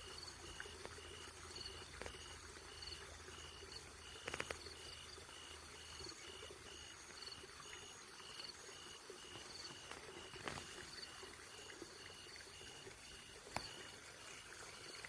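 Crickets chirping in a steady, even pulse, several chirps a second, with a few faint knocks or rustles.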